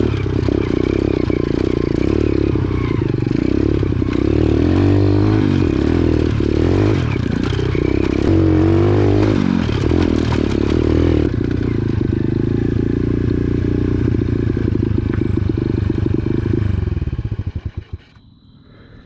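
125cc X-Pro pit bike's single-cylinder four-stroke engine running, its pitch rising and falling with the throttle. It then settles to a steady run and is shut off near the end, the firing slowing to a stop.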